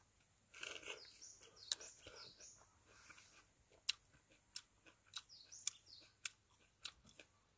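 Faint bird chirps, in two short runs about a second and five seconds in, among scattered soft clicks.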